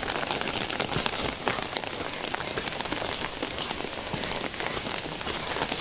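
Rain falling steadily, a dense patter of many small drop ticks over a constant hiss.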